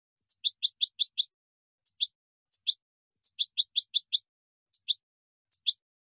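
Small bird chirping: two quick runs of five sharp chirps, with single chirps between and after them, each chirp a brief high note dropping in a fast downward sweep.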